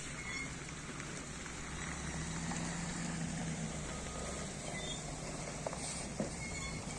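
Motor grader's diesel engine running steadily and fairly quietly as a low hum, with a few faint clicks.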